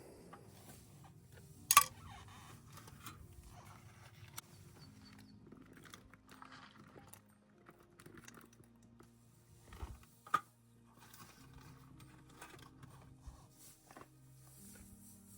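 Scattered clicks and light knocks of small objects being handled, with a sharp click just under two seconds in and another about ten seconds in, over faint soft background music.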